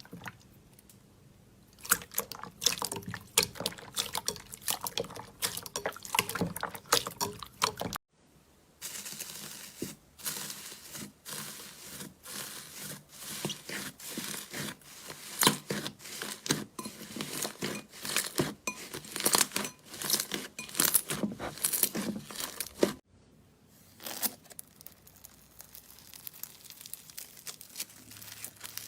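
Slime being squeezed, stretched and pressed, giving dense wet crackles and sticky popping clicks. Sharp breaks about 8 and 23 seconds in change from one slime to another.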